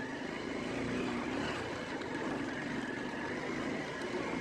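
Motorcycle engine running at a steady pitch while riding, under a steady rushing noise.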